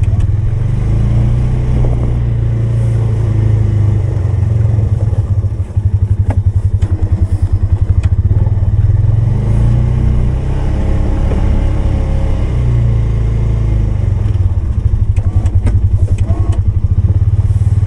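Polaris 570 ATV engine running as it pushes a snow plow, a low, pulsing note that eases and picks up again, with a few sharp knocks along the way.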